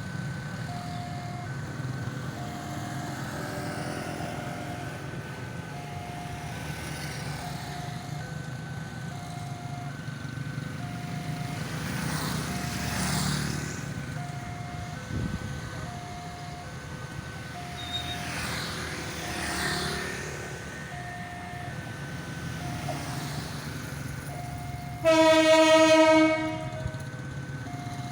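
A two-tone warning signal alternates low and high about once a second over the steady rumble of a train. Near the end, a single loud train horn blast lasts about a second and a half.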